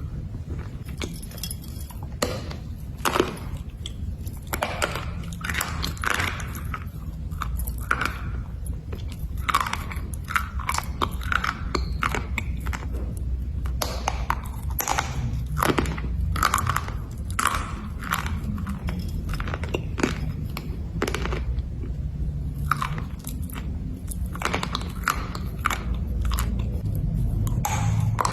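A person biting and chewing black slate bars: repeated irregular crisp crunches as the brittle slate breaks between the teeth.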